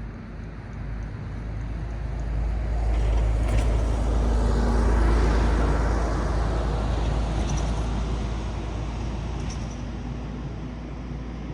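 A road vehicle passing by: tyre and engine noise swelling to a peak about five seconds in, then slowly fading away over a steady deep rumble.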